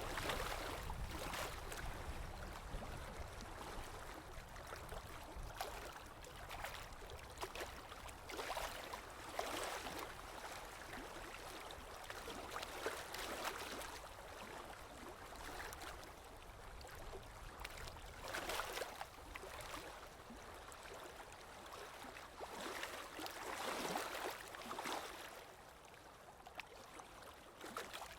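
Water flowing and splashing in an unbroken wash, swelling and easing irregularly every few seconds.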